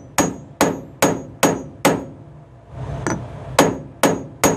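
Hammer blows on a grommet-setting tool, clinching a metal grommet into a tarp: sharp metal-on-metal strikes with a short ring. Five blows at about two a second, a pause of over a second, then three more.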